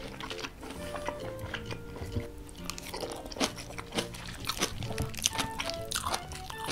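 Close-miked chewing of a mouthful of jjapaguri noodles with beef: a run of short wet mouth clicks and crunches, over steady background music.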